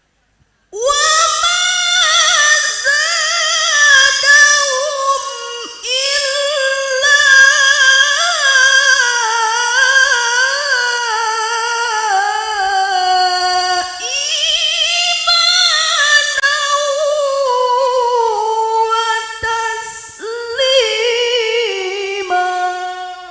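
A woman's voice reciting the Qur'an in a melodic, drawn-out chant. Long high phrases waver and glide through ornamented turns, with short breaths between them, starting about a second in.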